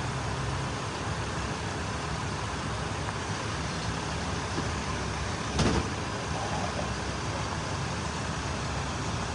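Steady roadside traffic and vehicle engine noise, with one sharp thump about halfway through.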